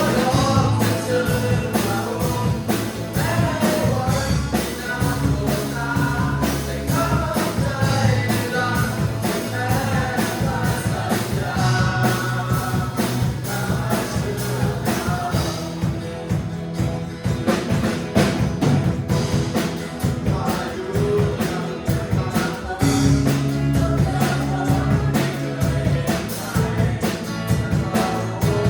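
Worship band playing a praise song: singing over a band with a steady drum beat and bass.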